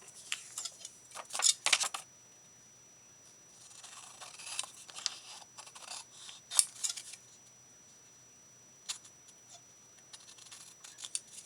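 Paper and craft materials being handled: rustling, sliding and light taps in bursts with quiet gaps, and a single sharp click about nine seconds in.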